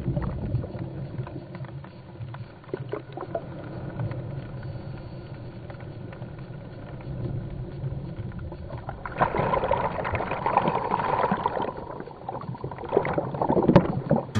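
A boat's engine running steadily. About nine seconds in, a louder rushing noise rises over it for roughly three seconds, and a few sharp knocks come near the end.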